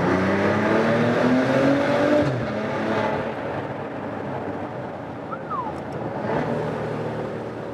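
Maserati Ghibli SQ4's 3.0-litre V6 accelerating hard in second gear, its exhaust note rising in pitch for about two seconds before falling away, then running on and rising again slightly near the end. It is heard from inside the cabin with the rear windows down, echoing in a tunnel.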